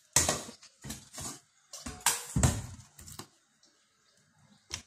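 Handling noises from a rice cooker and its power plug being worked: a few short knocks and scrapes, with a sharp click near the end.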